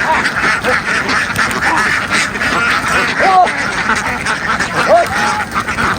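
A large flock of domestic ducks quacking continuously, many calls overlapping into a dense clamour, with a few single calls standing out above it.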